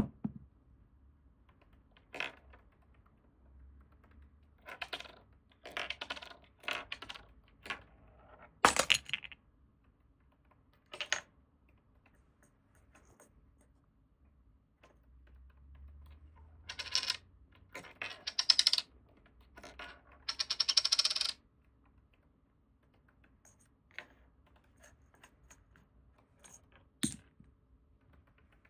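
Irregular bursts of quick small clicks and rattles, with a few louder clusters about 9 seconds in and again from about 17 to 21 seconds: a budgerigar pecking at and knocking about a small plastic cap.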